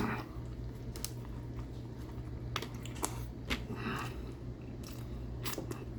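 A man chewing a mouthful of barbecue chicken, with scattered wet mouth clicks and smacks over a steady low hum.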